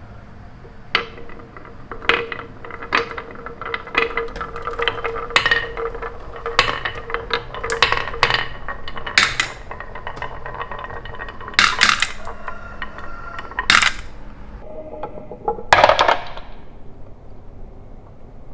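Small hard objects clicking and clinking together at irregular intervals, some strikes ringing briefly with a bright tone; the loudest clinks come about twelve, fourteen and sixteen seconds in.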